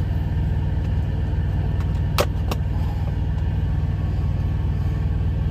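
Semi truck's diesel engine idling with a steady low rumble, heard from inside the cab. Two light clicks a little over two seconds in.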